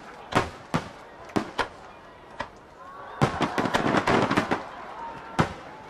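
Aerial fireworks bursting: separate sharp bangs every half second or so, then a dense rapid volley of overlapping crackling bursts about three seconds in, then a single bang near the end.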